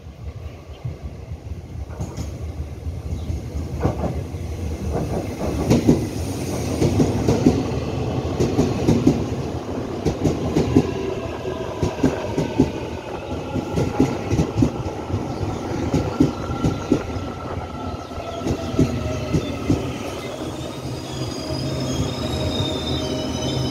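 Taiwan Railways EMU800-series electric multiple unit arriving at a station, growing louder as it approaches, its wheels clattering over rail joints and switches. From about twenty seconds in, a squeal of several high tones sliding slowly down sets in as the train brakes.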